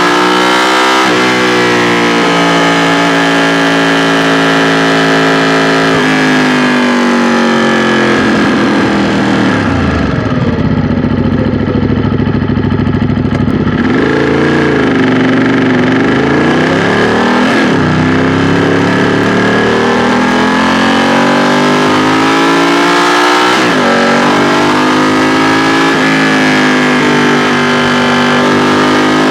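2016 Ducati XDiavel S's 1262 cc L-twin engine running under way, its revs rising and dropping through gear changes. About ten seconds in the revs fall to a low, near-idle note for a few seconds, then climb again as the bike pulls away.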